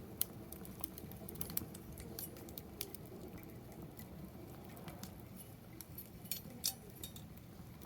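Wood fire in a fire-pit stand crackling, with many small irregular pops and a few louder snaps over a low steady rumble of the flames.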